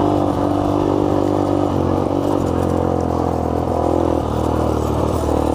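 Small four-stroke dirt bike engine running at a steady cruise, its pitch dipping and rising slightly with the throttle, heard from a helmet-mounted microphone.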